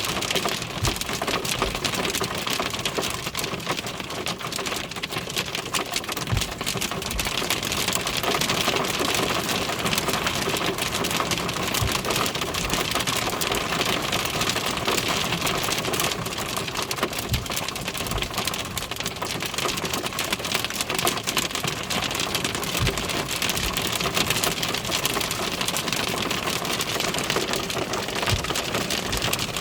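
Hail falling heavily: a dense, steady clatter of hailstones striking surfaces, with a few isolated low thuds.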